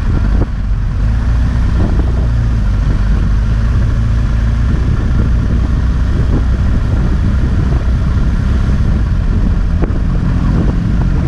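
Motorcycle engine running steadily, the sound mostly low-pitched and even in level.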